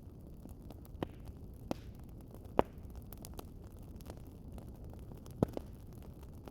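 Wood fire crackling: a steady low rumble with scattered sharp pops, the loudest about two and a half seconds in and a quick pair near the end.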